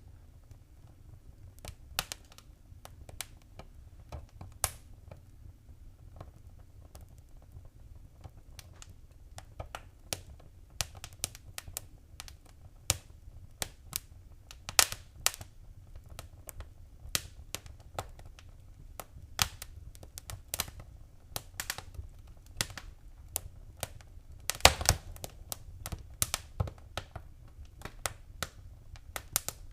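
Wood fire in a fireplace crackling: irregular sharp pops and snaps, a few loud ones standing out, over a low steady rumble of the flames.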